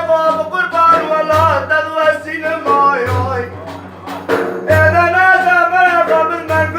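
A man singing a devotional praise song (madih) in long, wavering held notes, over a deep low beat that comes about every one and a half to two seconds.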